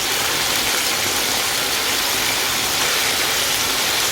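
Chicken wings deep-frying in hot oil on their second fry to crisp them: a steady, loud sizzle.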